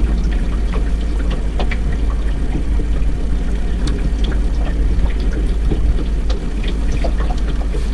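Steady low rumble with water lapping and splashing against a small boat, scattered with small clicks and slaps.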